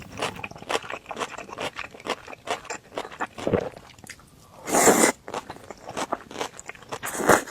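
A person chewing and crunching a mouthful of cold noodles with crisp vegetables, close to the microphone: many small wet clicks and crunches, with two louder noisy bursts, one about five seconds in and one near the end.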